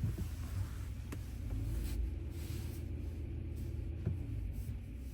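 Low, steady rumble of a Ram pickup's Hemi V8 running, heard from inside the cab.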